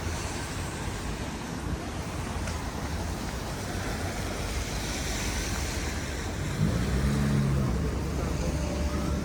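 City street traffic noise with wind rumbling on the microphone; a vehicle engine grows louder about seven seconds in.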